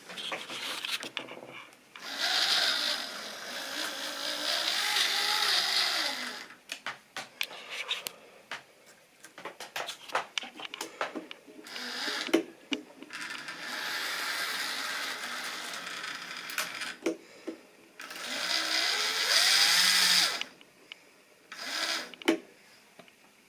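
A model railway train running round the track: the small electric motor's whine and the wheel rumble swell three times as it passes close by. Between the passes come runs of sharp clicks from the wheels crossing rail joints.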